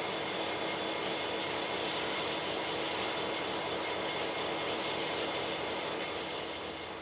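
A passing train rolling by, a steady rush and rumble of wheels on rail with faint steady whining tones on top.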